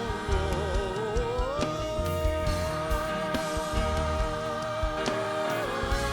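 Worship music with singing. A voice wavers, rises to one long held note about a second and a half in, and steps down near the end, over a band with regular drum and bass beats.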